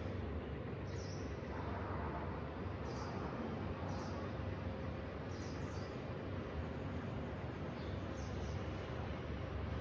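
Steady low rumble and hiss of background ambience, with short high bird chirps every second or two.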